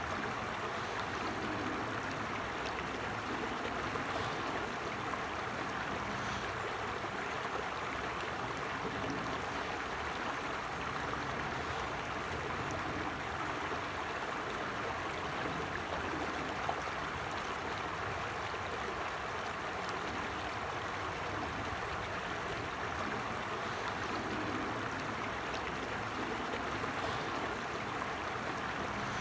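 Small forest stream flowing steadily, a continuous rushing and gurgling of water.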